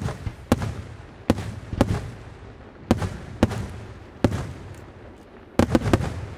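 Aerial firework shells bursting in quick succession, a sharp bang every half second to a second with a short echoing tail after each. Near the end three bangs come close together.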